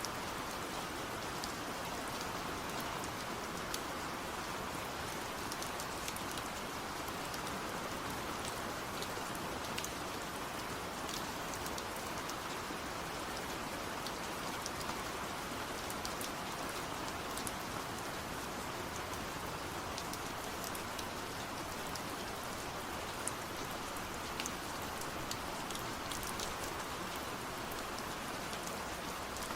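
Steady rain falling, an even hiss with scattered sharp drip ticks of individual drops hitting a surface.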